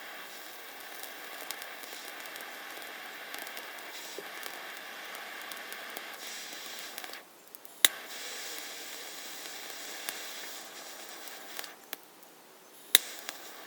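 Mini butane blowtorch flame hissing steadily while lighting oil-soaked fungus tinder. It goes out twice, and each time a sharp igniter click relights it.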